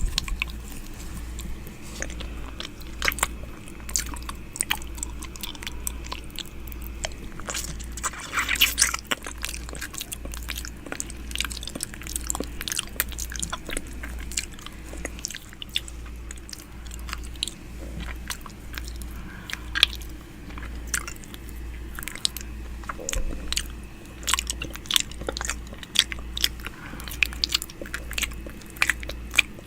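ASMR 'ear eating' mouth sounds: wet clicks, licks and nibbling made right against a microphone, in an irregular, dense patter, with a steady low pulsing throb underneath.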